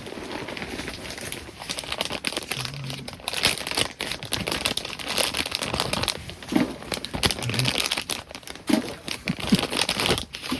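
Irregular crinkling and rustling, as of a plastic wrapper being handled, with scattered sharp crackles.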